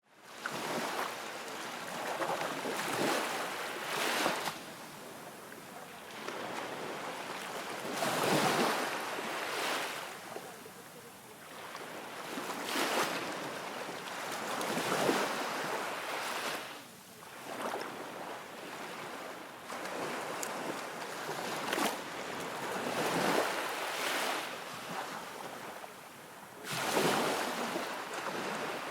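Outdoor rushing noise of wind and lapping water, swelling and fading every few seconds.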